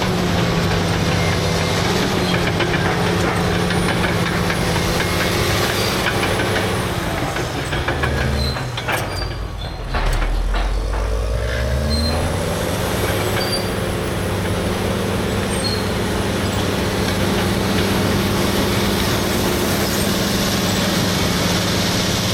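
Caterpillar D6R bulldozer's C9 diesel engine running steadily under load. About eight seconds in its pitch drops and the sound dips briefly, then about two seconds later the engine note rises back up to a steady pitch.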